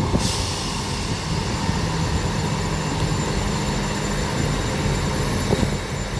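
Class 158 diesel multiple unit running: a steady low engine drone with an even hiss over it.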